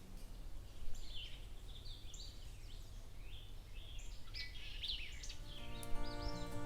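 Small songbirds calling in woodland: many short, high chirps and quick sliding notes, one after another. Background music comes in near the end.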